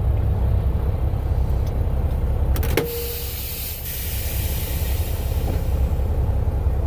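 Vehicle engine rumbling steadily, heard from inside the cab, with a sharp click about three seconds in.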